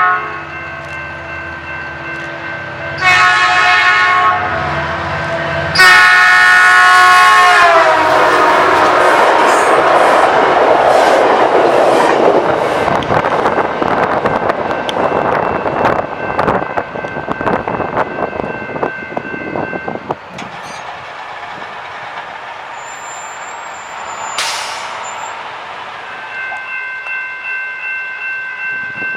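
A train horn sounds two loud blasts, the second dropping in pitch as the train passes, then the train rushes through the grade crossing with wheel clatter for about twelve seconds before fading. Crossing warning bells ring at the start and start ringing again near the end.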